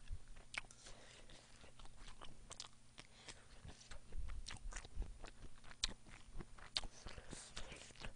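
Close-miked chewing of a mouthful of food, with irregular wet mouth clicks and smacks, and a few soft low bumps about four seconds in.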